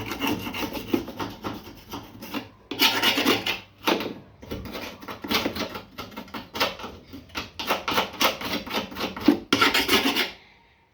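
Rough hand scraping, a fast run of rasping strokes, several a second in uneven bursts, stopping shortly before the end.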